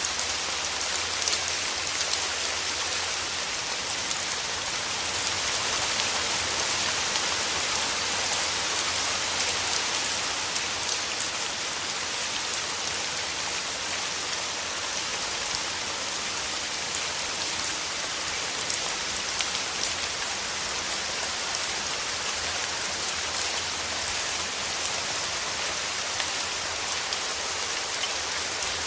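Steady rain falling in a forest, a dense hiss of drops with fine individual drop ticks throughout.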